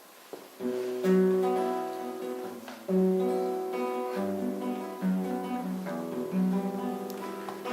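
Acoustic guitar playing the instrumental introduction to a song, with chords struck and left to ring about once a second, starting just under a second in.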